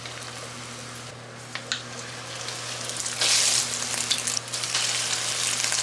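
Breaded pork chops shallow-frying in hot oil: a steady sizzle with a few faint crackles, which swells sharply about three seconds in and stays louder.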